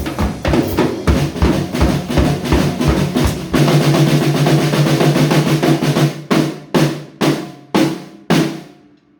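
Rock band music driven by a drum kit: fast snare and bass drum playing, then a held chord under a drum roll, then a run of about six accented hits, each ringing out, before the music stops near the end.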